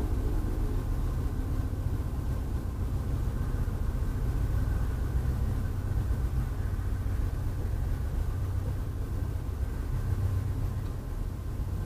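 Steady low rumble of an Amtrak Downeaster passenger train rolling slowly past, heard from inside a parked vehicle, a little louder about ten seconds in as the end car goes by.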